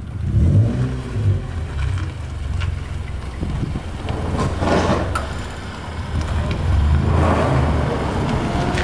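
Honda Brio's small petrol engine running as the car creeps along slowly, its note rising briefly right at the start. Two short rushing noises come partway through and near the end.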